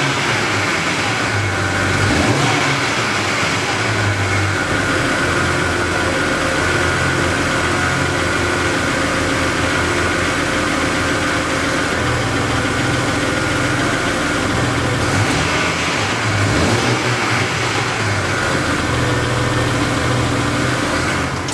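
BMW 335i's turbocharged 3.0-litre inline-six running, with a couple of brief rises in engine speed. The owner suspects the sound points to a bad turbo.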